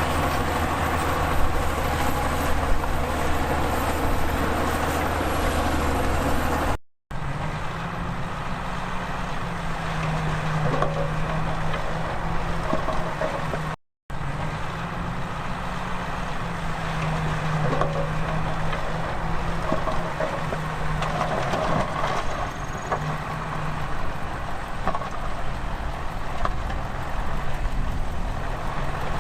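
Heavy diesel earthmoving machinery, bulldozers and dump trucks, running steadily under work. The sound drops out twice, briefly, about seven and fourteen seconds in.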